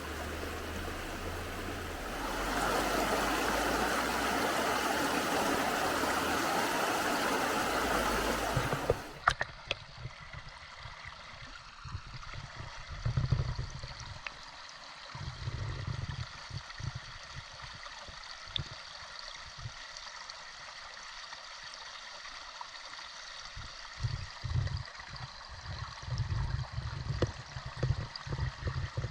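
Mountain stream rushing over rocks, a steady loud hiss of water. About nine seconds in it cuts to a quieter stretch of flowing water with irregular low rumbles.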